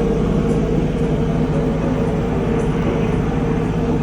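Kubota tractor's diesel engine running steadily under load with the PTO-driven finish mower engaged and cutting grass.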